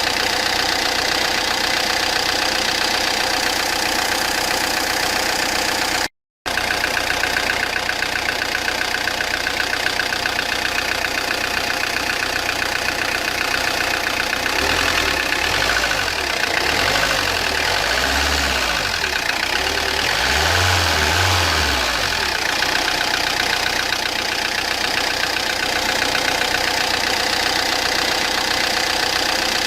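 Peugeot Partner 1.9 diesel engine running with a loud, steady knocking noise, which the mechanic believes comes from wrong timing, with the pistons touching the valves. Low thumping swells come in between about 15 and 22 seconds in, and the sound drops out briefly about six seconds in.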